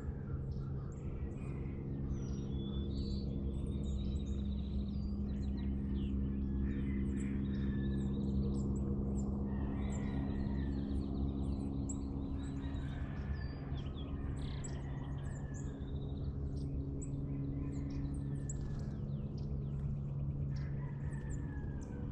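Several birds chirping and calling, with short chirps and a few gliding calls, over a steady low hum.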